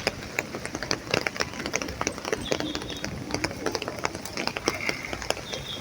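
Rain falling on an umbrella: many light, irregular ticks of drops over a steady low outdoor background.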